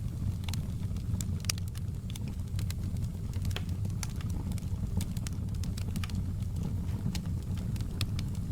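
Fireplace crackling: a steady low rumble of burning logs with irregular sharp pops and snaps.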